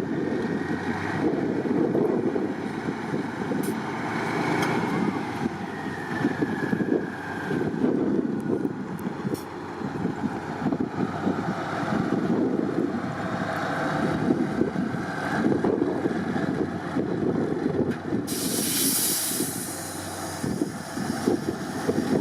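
Heavy truck engine working hard and changing revs as the truck crawls over a trial course. A hiss of air about eighteen seconds in lasts roughly two seconds.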